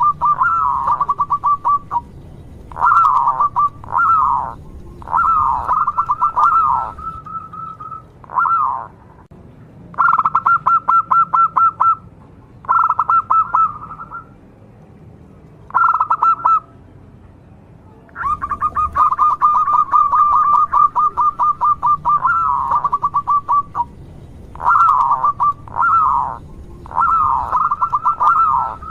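Zebra dove (perkutut) singing: bouts of fast stuttering notes near 1 kHz, some drawn out for several seconds, others short swooping coos, repeated with brief pauses between.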